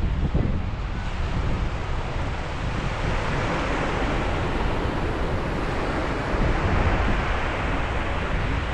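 Sea waves breaking and washing on a beach, one wave swelling to a louder wash about halfway through, with heavy wind rumble on the microphone.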